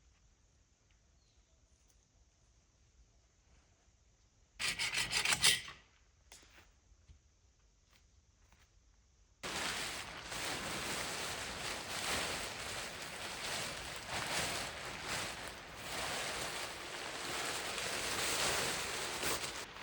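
A short loud scraping stroke about a quarter of the way in. Then, from about halfway, a continuous rough scraping, rubbing noise starts abruptly and runs on.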